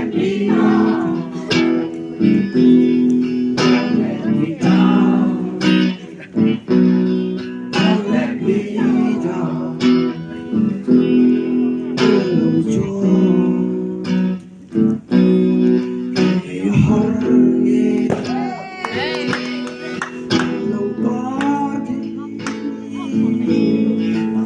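Acoustic guitar strumming chords in a steady rhythm, with a voice singing a melody over it.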